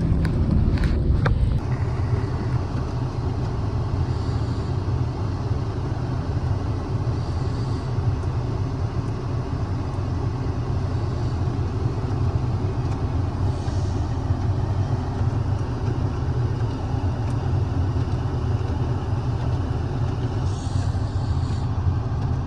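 Steady engine and road noise of a Lexus sedan being driven on a sleet- and snow-covered road, heard from inside the car: a constant low rumble under a wash of tyre noise. A few sharp clicks come in the first second or so.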